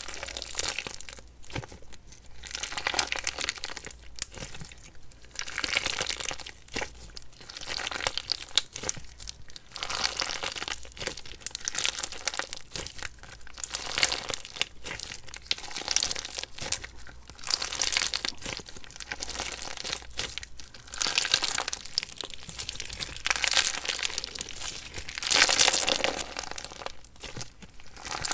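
Slime being squeezed and pressed by hand, giving crinkly, crackling squishes that swell and fade in repeated pushes every second or two.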